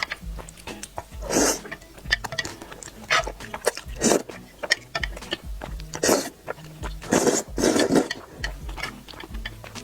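Fire chicken noodles being slurped up in about five long, loud pulls, with chewing and wet mouth clicks between them, over soft background music.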